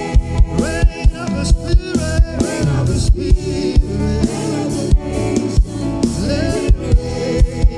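Live gospel worship music: a band playing with a steady drum beat while a singer holds sliding, ornamented vocal lines.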